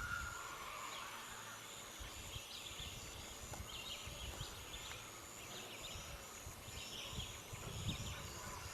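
Faint bird calls: recurring clusters of short, quick chirps, over an irregular low rumble.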